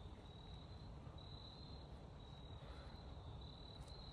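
An insect's steady, high-pitched trill, broken briefly now and then, over a faint low background hum.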